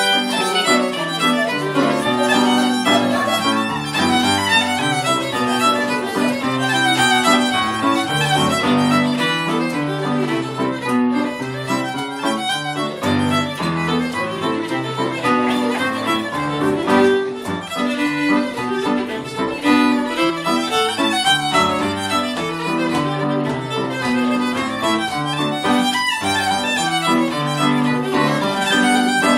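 Traditional Irish session music: fiddles playing a fast tune together, with other instruments in the mix.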